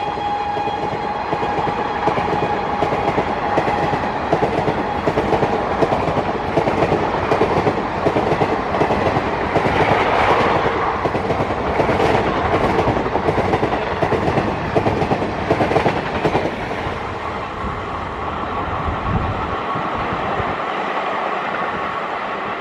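Express train coaches running past at speed behind a WAP7 electric locomotive: a steady rumble with regular wheel clacks over the rail joints. The tail of a horn blast fades out in the first few seconds.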